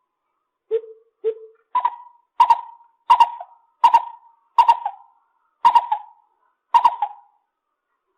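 Lesser coucal calling: a series of hollow hooting notes. Two deeper notes come first, then about seven higher ones, each with a sharp start, roughly one every 0.7 s and spacing out toward the end.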